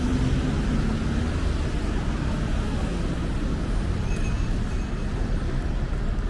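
Steady city traffic noise, with a low engine hum near the start that fades about a second in.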